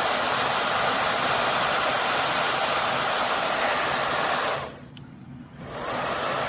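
WANTIFO high-speed brushless hair dryer running, a steady rushing blow of air. About four and a half seconds in it cuts out for about a second, then starts again.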